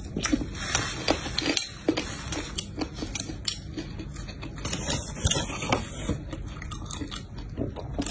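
Close-miked chewing and crunching of food in a person's mouth, with irregular wet crackles and clicks.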